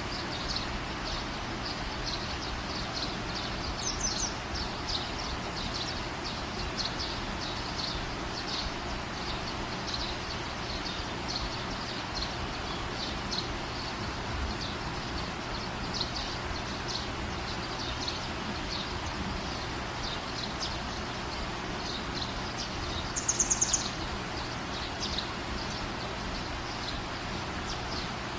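Outdoor nature ambience: small birds chirping in short high notes over a steady background hiss. A quick run of high chirps comes about 4 s in, and a louder, rapid trill about 23 s in.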